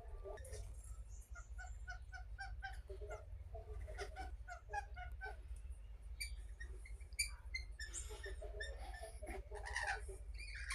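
Birds calling: a quick run of short repeated chirps, then higher, sharper chirps, and a harsh screech near the end.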